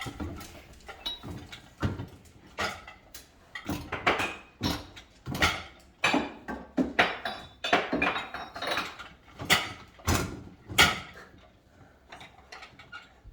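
Dishes and cups knocking and clinking as they are lifted out of a dishwasher rack and set down, a string of irregular sharp knocks about one a second.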